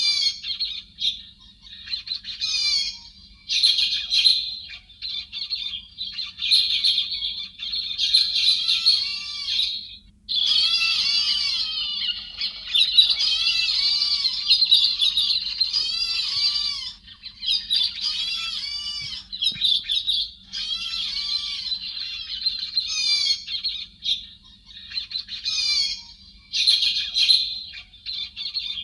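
Many héc xoan birds chattering together in a dense flock chorus. Harsh squawks and chirps overlap in bursts of a few seconds, with short gaps between them. A faint steady hum runs underneath.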